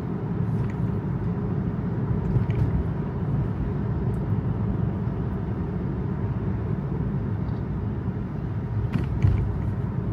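Steady tyre and road rumble inside a moving Tesla's cabin on wet pavement, with a short knock about nine seconds in.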